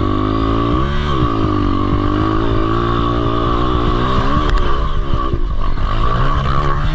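Dirt bike engine revving hard with the throttle worked open and shut, its pitch rising and falling repeatedly. It stutters in a choppy stretch about two-thirds through, then climbs again. It is pulling on a climb in a low gear.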